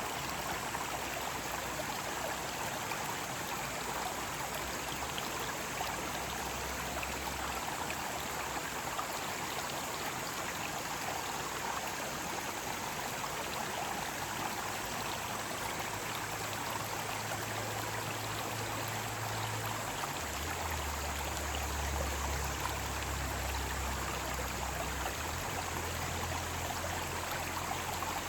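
Mountain stream rushing over rocks, a steady even wash of water. A low rumble comes and goes under it in the second half.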